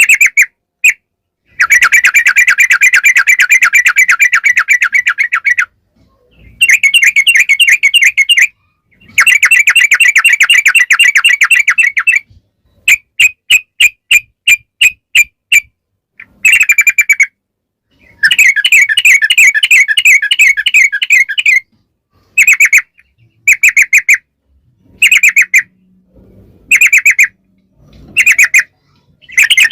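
Yellow-vented bulbul (trucukan) calling in long, fast rattling trills, each burst lasting a few seconds with short pauses between. Partway through, the trill breaks into a run of separate, evenly spaced notes before the rapid trills resume.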